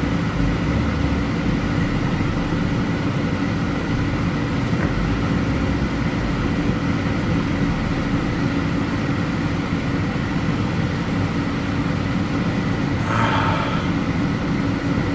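Inside the cabin of a 2002 Mazda 626, the engine idles steadily while warming up after a cold start, with the heater blower running. A short brighter sound cuts in briefly near the end.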